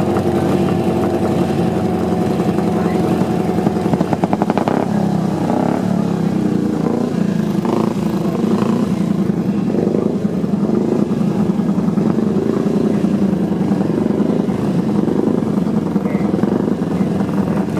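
Several classic racing motorcycle engines running at idle in a start queue, a steady mechanical note that shifts about four seconds in and then rises and falls gently.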